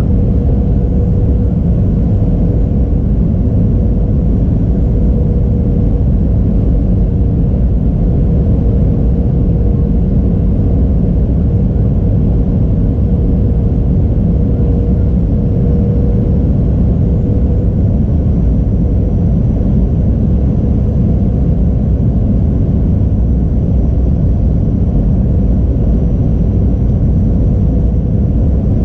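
Airliner cabin noise: a steady, loud low rumble with a constant hum running through it.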